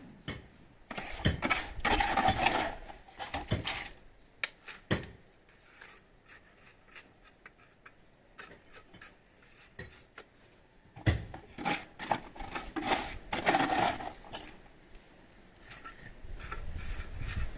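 Hand tools scraping and rubbing on gritty material, with sharp clinks, in two bursts separated by a quieter stretch of occasional clicks. A low rumble builds near the end.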